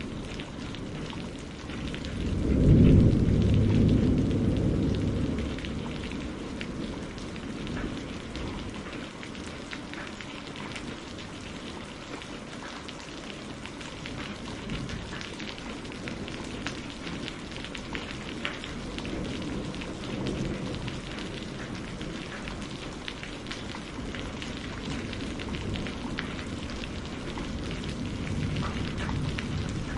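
Steady rain pattering on a greenhouse roof, with a low roll of thunder that swells about two seconds in and dies away over a few seconds, and fainter rumbles later on.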